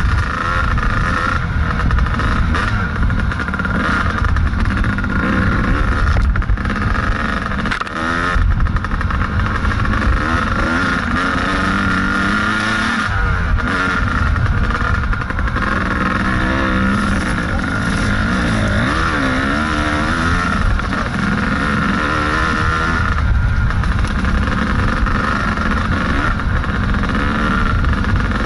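Kawasaki KDX220 two-stroke dirt bike engine running under a rider over a trail. Its pitch rises and falls again and again as the throttle opens and closes.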